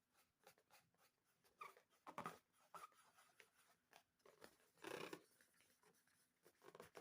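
Near silence with faint, irregular handling sounds, a few short rustles and squishes, the clearest about two and five seconds in.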